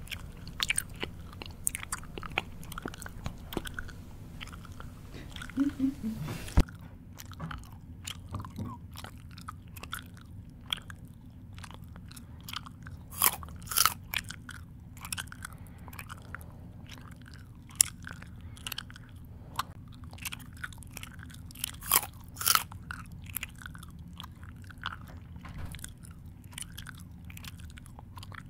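A person chewing food noisily, with irregular sharp mouth smacks and crunches. A low steady hum runs underneath.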